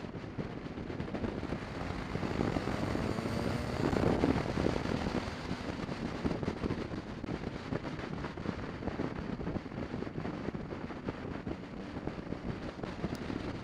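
Motorcycle under way, a BMW 650 GS: wind rushing over the microphone with the engine running underneath, swelling louder about four seconds in.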